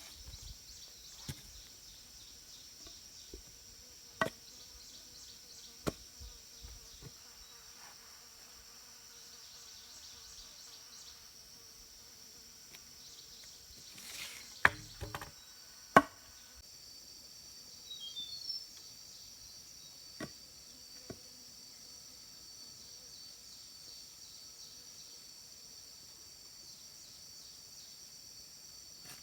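A steady high-pitched chorus of insects, with scattered sharp knocks, the two loudest about halfway through, and a few short bird chirps soon after.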